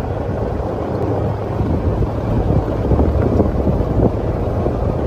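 Wind buffeting the microphone: a loud, rough rumble with no clear tone, flickering unevenly.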